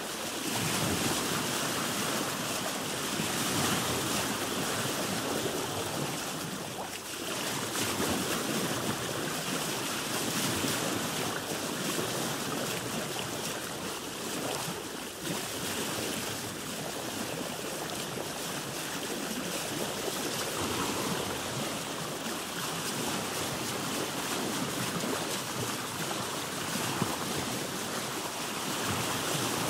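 Ocean waves heard from a boat: a steady rushing wash of sea water that swells and eases every few seconds.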